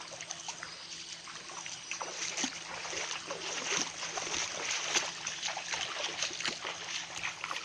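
Waterfall water running and splashing over rocks: a steady hiss full of small splashes.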